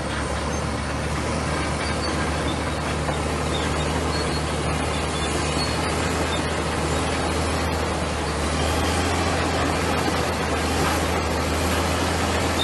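Komatsu bulldozer's diesel engine running steadily with a low hum under broad mechanical noise, growing slightly louder about two-thirds of the way through.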